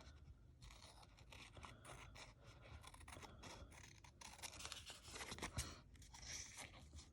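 Scissors snipping through paper to trim off excess: a run of faint, irregular snips and paper rustles, a little louder about five seconds in.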